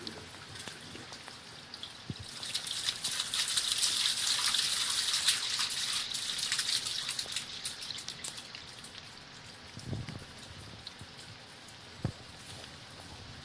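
Water splashing and dripping in a sump pit. The splashing swells into a gush about two seconds in and fades away over the next few seconds. Two dull knocks follow near the end.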